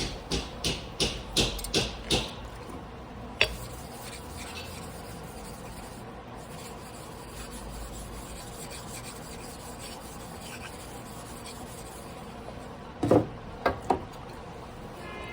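A carbon-steel Damascus sashimi knife being stroked back and forth on a whetstone by hand, about three rasping strokes a second, stopping after about two seconds. Then a single tick, a long lull of low background, and three sharp knocks near the end.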